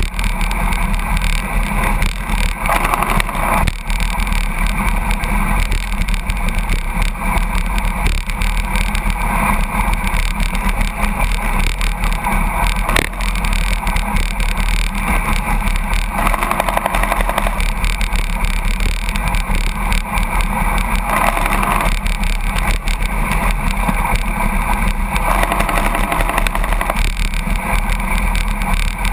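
Steady, loud rush of wind and road noise from a bicycle slipstreaming close behind a truck at about 82 km/h, with the truck's running heard through it.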